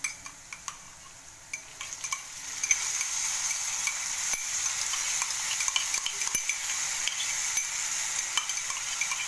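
Potato cubes frying in oil in a pan, with a few sharp clicks of a steel spoon against its bowl. About two and a half seconds in, the sizzle grows into a louder, steady hiss with crackling as crushed garlic and fennel seeds go into the hot oil.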